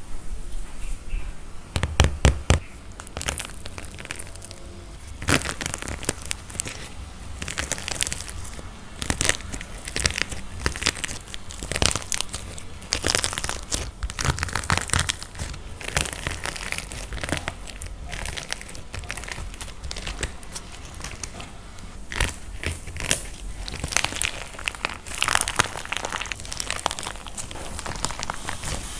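Dried plaster clay being cracked and crumbled by hand, giving a dense, irregular run of crunchy cracks and crackles, with a loud cluster of cracks about two seconds in.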